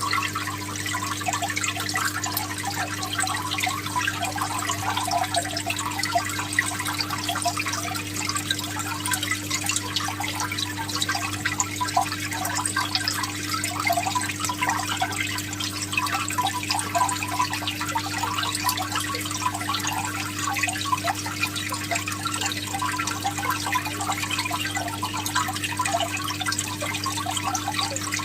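Water trickling and bubbling steadily, with a constant low hum underneath.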